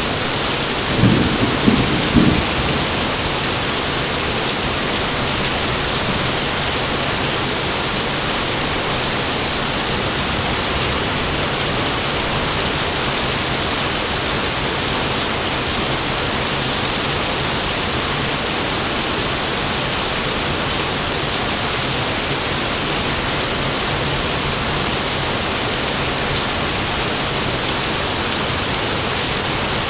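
Heavy rain falling steadily, with a brief low rumble of thunder, a few quick surges, about a second in.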